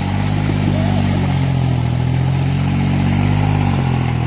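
New Holland tractor's diesel engine labouring under a heavy pulling load. It runs at a steady pitch that drops slightly near the end.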